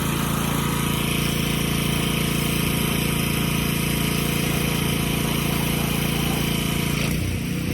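A small engine running steadily, with a hiss on top. About seven seconds in the hiss drops away and the engine note changes.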